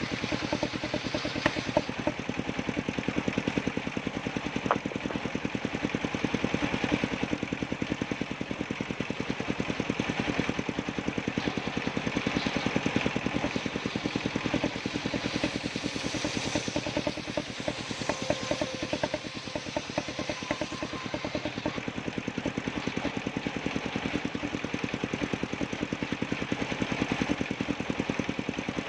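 Engine of a motor-driven circular saw rig running steadily with a fast, even chugging beat, the saw noise riding on top.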